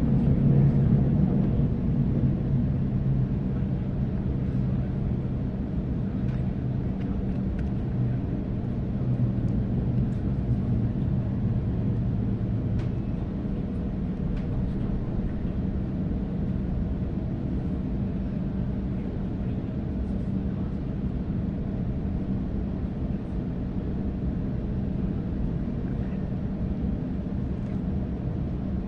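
Steady low rumble of a Waratah electric passenger train running on the track, heard from inside the carriage. A low hum is loudest at first and fades away about twelve seconds in.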